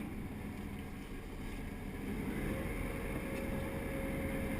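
Sport-fishing boat's engine running steadily, with rushing water and wind noise; about halfway in it gets a little louder and a steady hum comes in.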